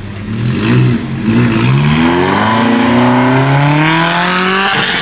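Loud go-kart engine revving and accelerating: a short blip under a second in, then a long steady climb in pitch for about three seconds, dropping off suddenly near the end.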